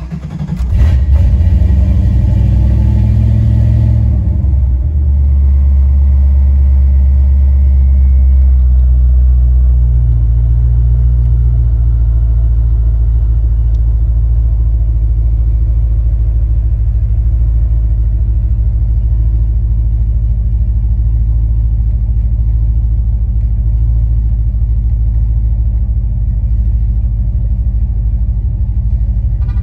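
A 1994 Ford Mustang SVT Cobra's 5.0-litre V8 catches on a cold start, louder and brighter for the first few seconds. It then settles into a steady fast idle of just over 1,000 rpm, heard from inside the cabin.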